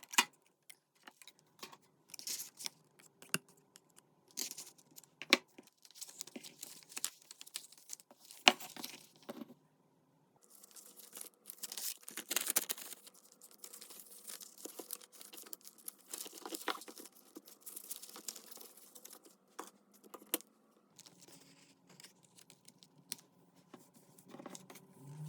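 Paper and cardstock being handled close up: rustling, sliding and tearing, with scattered taps and clicks. There is a brief pause about ten seconds in.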